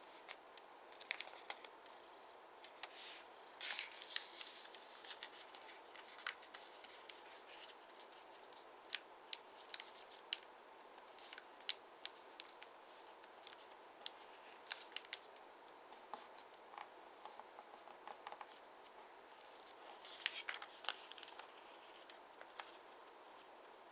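Square origami paper being folded and creased by hand: scattered sharp crackles and scratches as creases are pressed, with longer rustles about four seconds in and again near twenty seconds.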